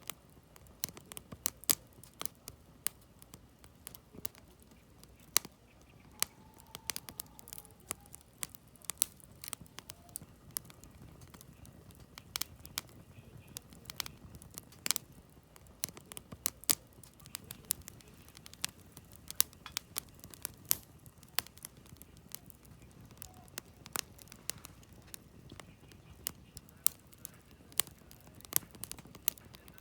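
Campfire of split firewood logs burning, with irregular sharp crackles and pops, several of them loud, over a low steady rumble of the flames.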